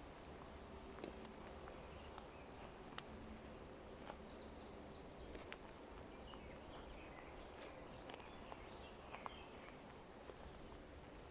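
Faint forest ambience: scattered soft clicks and crackles over a low hiss, with a short run of high bird notes falling in pitch a few seconds in and faint chirps later.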